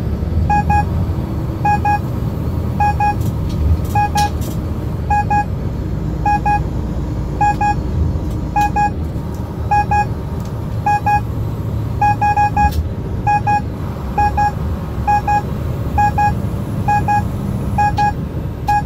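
Steady low engine and road drone inside a moving truck's cab, with a short electronic double beep repeating roughly every half second.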